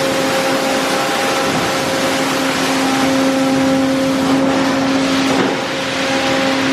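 D&S Odyssey automatic car wash running: a steady loud rush with a constant motor hum under it.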